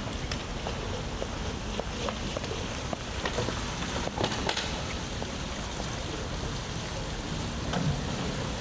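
Steady rain falling, with scattered close drops ticking sharply, a few bunched together about halfway through.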